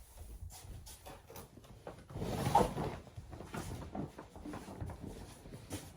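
Faint scattered clicks and knocks of objects being handled or set down, with a louder bump and rustle about two and a half seconds in.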